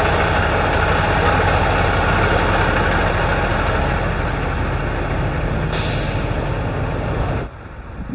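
A semi truck's diesel engine running close by, with a short sharp hiss of air brakes about six seconds in. The sound drops away suddenly near the end.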